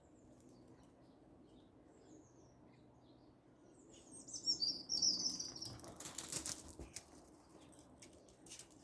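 Wild songbirds chirping in trees in spring, with one bird singing a loud, high warbling phrase about halfway through. A burst of rustling, typical of wings flapping, follows right after.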